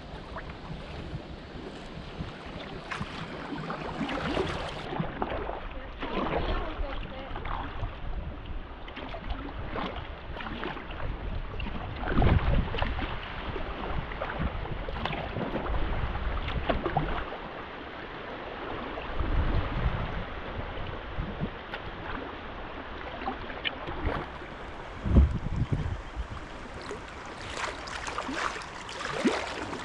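Kayak paddle strokes dipping and splashing in river water, irregular, with now and then a low rumble of wind on the microphone.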